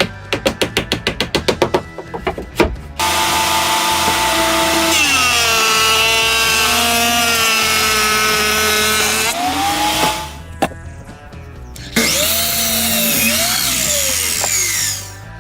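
A quick run of short, even rasping strokes. Then a power tool runs loudly in two long stretches, its motor pitch dropping and rising as it is loaded and eased off on the wood.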